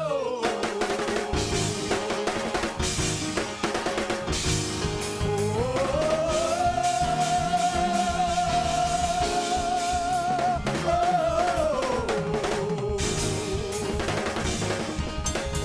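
Live gospel-style church praise music: a drum kit playing steadily under long held, slightly wavering melody notes that step up about five seconds in and drop back down near eleven seconds.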